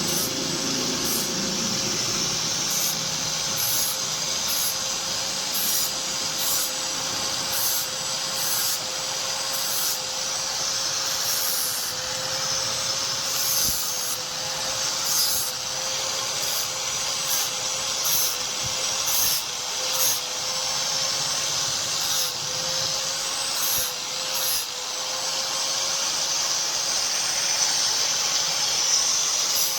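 A power tool running steadily with a constant motor whine over a rasping hiss, with strokes repeating about once a second. It sounds like a blade being worked with a grinder.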